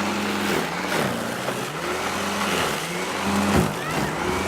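Greenworks electric snow shovel's motor running with a steady hum, its pitch dipping and picking back up several times.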